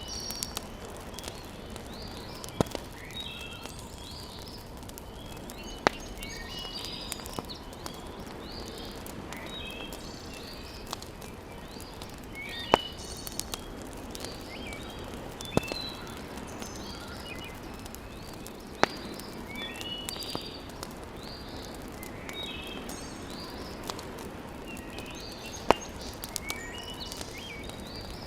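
Wood fire in a fireplace crackling, with a sharp pop every few seconds, while small birds chirp over and over.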